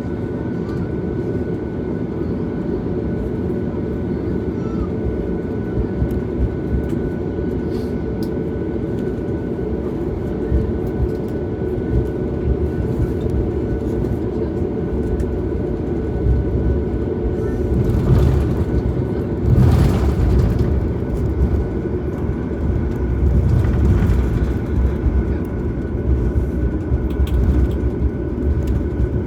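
Cabin noise inside a Boeing 737 MAX on the ground before takeoff: a steady low rumble from the CFM LEAP-1B engines at idle and the air system, with a faint steady whine. A few louder bumps and rattles come about two-thirds of the way through.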